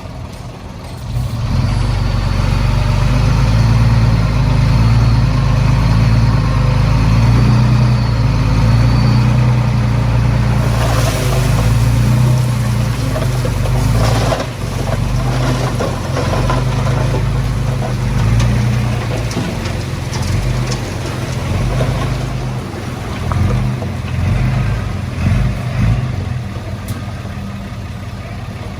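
Heavy diesel engine of earthmoving machinery running steadily and loud, picking up about a second in, with a couple of short noisy rushes around the middle.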